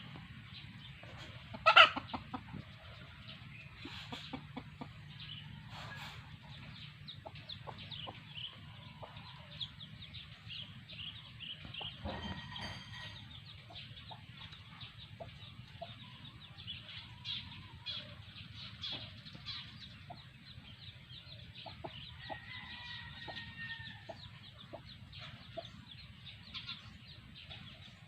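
Hen clucking with her chicks peeping, many short high peeps throughout, with one sudden loud click about two seconds in.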